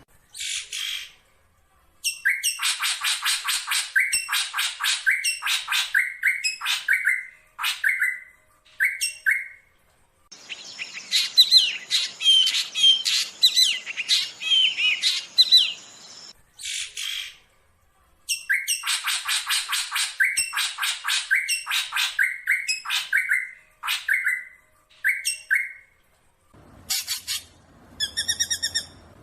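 Black drongo calling: rapid series of harsh, buzzy notes in bursts, with a dense, scratchy chattering passage mixed with short whistled notes midway through, then the fast harsh series again.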